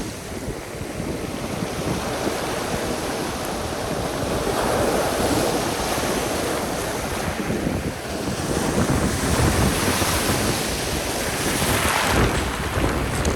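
Sea surf washing onto the shore, with wind buffeting the microphone. The wash swells about four seconds in, and a louder wave breaks near the end.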